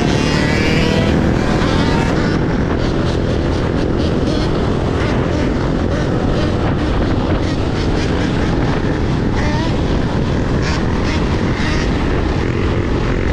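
Steady, loud wind and road rush on a GoPro microphone while riding a Sur-Ron electric dirt bike, with a faint whine rising in the first two seconds.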